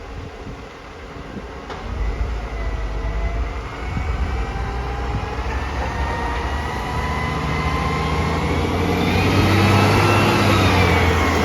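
Garbage truck driving past: engine drone with a whine that climbs steadily in pitch as it gets louder, then drops slightly near the end.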